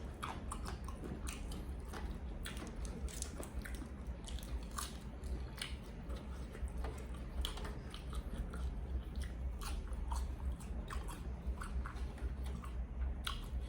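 Close-up chewing and biting of crunchy fried chicken: irregular crisp crunches and clicks of teeth on crackly skin and bone, over a steady low hum.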